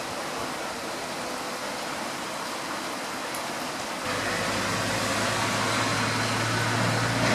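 Steady rain falling, an even hiss. About four seconds in a low steady hum comes in under it and slowly grows louder.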